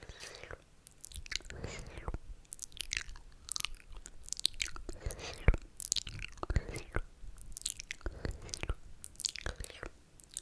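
Close-miked wet mouth sounds: slurping with many sharp lip and tongue clicks in irregular runs.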